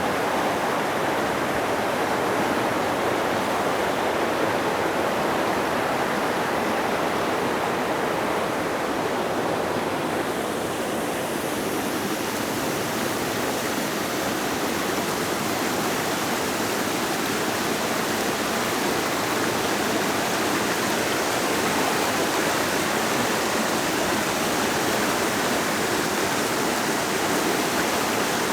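A creek flowing over rocks: a steady rush of water, with the higher hiss growing stronger about ten seconds in.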